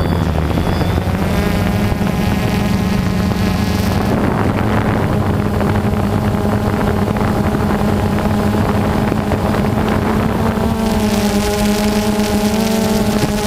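Jet ski engine running steadily under way, with wind on the microphone and rushing noise.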